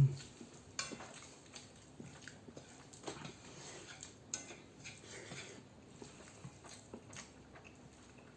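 Close-miked eating of Chapagetti instant noodles: chewing and wet mouth smacks, with short clicks scattered at an irregular pace. A brief, louder low sound comes right at the start.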